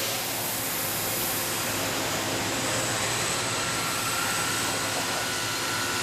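CNC cutting torch hissing steadily as it cuts through a steel beam, with a faint steady whine joining about three seconds in.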